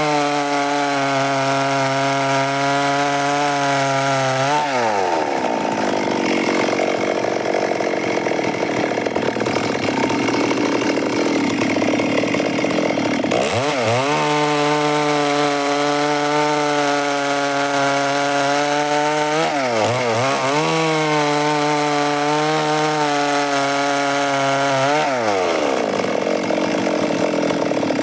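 Stihl MS 382 two-stroke chainsaw running at high revs with a steady high pitch. Twice the pitch drops and the sound turns rough for several seconds, the first time about five seconds in and again near the end, as the chain cuts along the wood under load.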